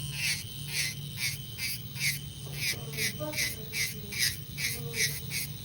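Electric nail drill running with a steady hum while its bit files gel polish off a fingernail in short, repeated strokes, about two to three a second.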